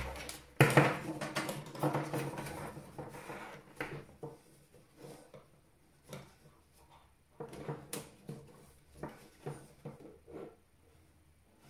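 Hands working inside a desktop PC case: scattered small clicks, taps and rustles of parts and cables being handled, busiest in the first few seconds and sparser after.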